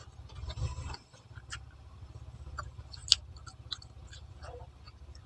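A person chewing grilled chicken intestine (isaw) close to the microphone: small scattered mouth clicks, with one sharper click about three seconds in.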